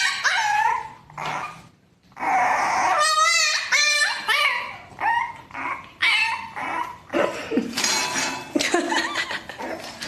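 A dog giving a string of short, high calls with a wavering pitch, barks and yips mixed with whining.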